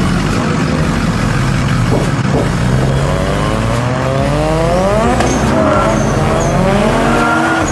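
Car engine accelerating hard, its pitch climbing steadily, dropping briefly about five seconds in, then climbing again.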